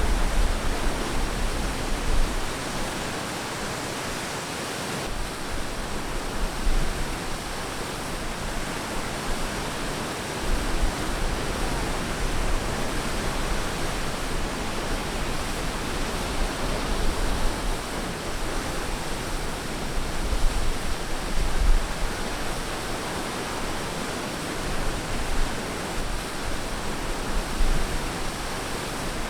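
Surf washing onto a beach: a steady rush of waves with a low rumble that swells and fades.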